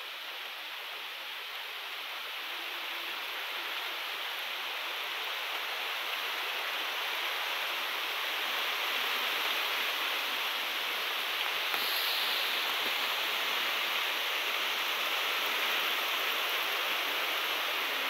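Rain falling steadily, an even hiss that slowly grows louder.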